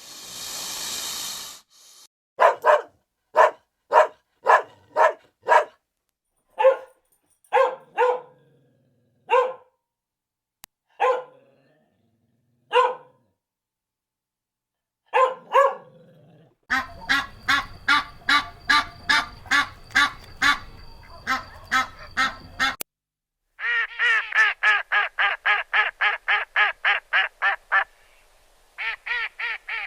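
Animal calls: a brief noisy burst, then single short calls about a second apart, then faster runs of repeated calls in separate stretches that start and stop abruptly.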